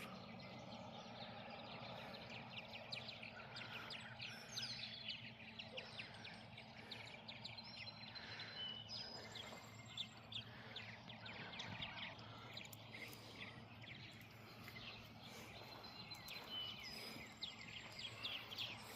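Several birds chirping and calling faintly outdoors: many short chirps and a few brief whistled notes, over a steady low hum.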